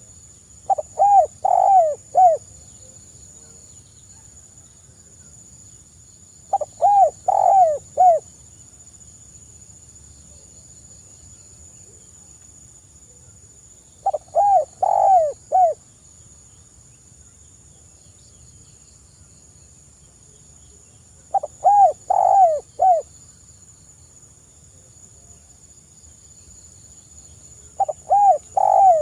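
A dove cooing in five phrases of four or five quick, hooked coo notes each, one phrase every six to seven seconds, with a steady faint high whine behind.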